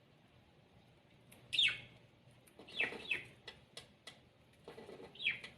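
Pet birds giving short, sharp calls that fall in pitch, about four in all, with a few faint clicks between them.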